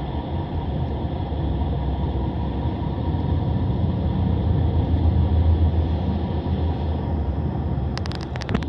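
Passenger train running along the line, heard from inside a carriage: a steady low rumble of wheels on rails that swells about halfway through. Near the end a few sharp clicks cut in.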